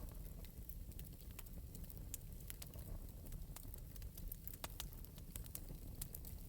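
Wood fire burning in an open metal fireplace, crackling lightly with irregular sharp pops and snaps over a low steady rumble of the flames.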